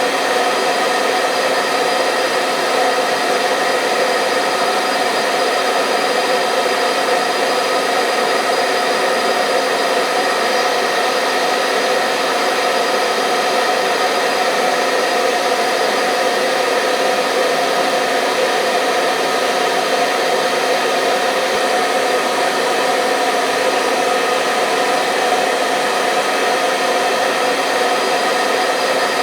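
Hair dryer running steadily: an even rush of blown air over a constant motor whine with several steady tones, unchanging throughout.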